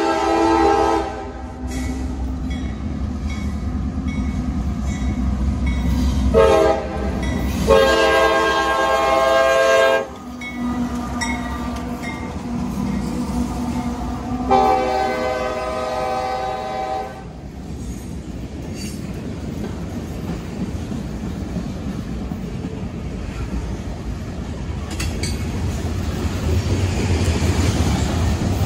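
CSX freight train sounding its multi-chime air horn for a grade crossing as it approaches. One blast ends about a second in, then come a short blast, a long one, and another long one. The locomotives then rumble past, followed by the steady rolling clatter of freight cars on the rails.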